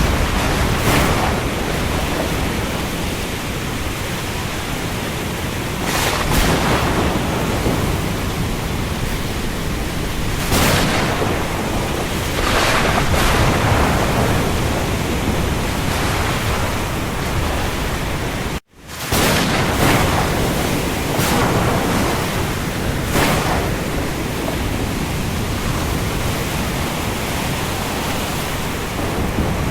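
Steady hiss of heavy rain falling on the open sea, with waves swelling every few seconds. The sound cuts out completely for a split second about two-thirds of the way through, an edit splice.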